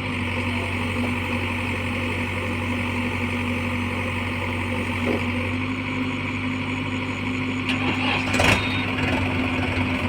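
Heavy diesel engine running steadily at a constant speed, with a brief louder noise about eight and a half seconds in.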